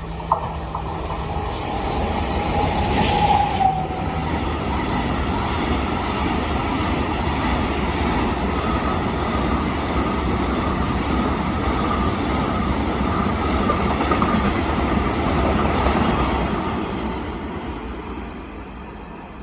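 A train running past on the rails: a steady rush of wheel-on-rail noise, with a brief high hiss and a short falling tone in the first few seconds. It fades away over the last few seconds.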